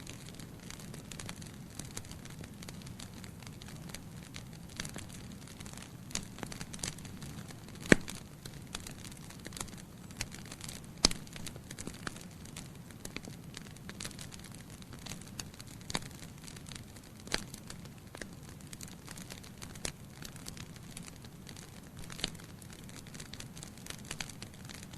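Wood fire burning in a fireplace: a steady low rumble of flames with irregular crackles and sharp pops from the burning logs, the loudest pops about eight and eleven seconds in.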